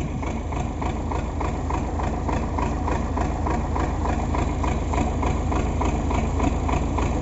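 Diesel engine of an MTZ (Belarus) tractor running steadily at idle, with an even, fast beat of firing pulses.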